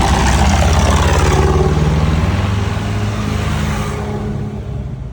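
A tractor engine passing close by, its pitch dropping as it goes past, then fading as it moves away.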